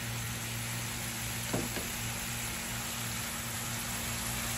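Mixed vegetables sautéing in hot coconut oil in a nonstick pan: a steady, soft frying sizzle as they wilt, over a low steady hum.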